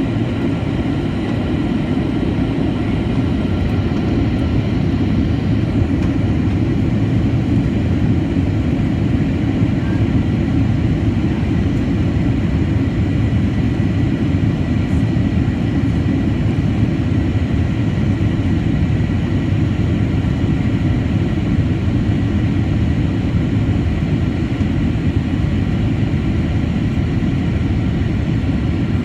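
Steady cabin noise of a Boeing 737-800 in flight: a loud, even rumble of its CFM56-7B engines and the airflow, with a faint high hum.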